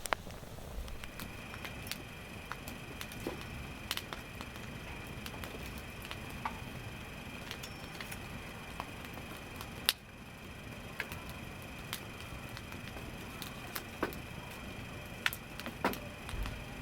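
Wood campfire crackling, with irregular sharp pops from the burning logs; the sharpest pop comes about ten seconds in.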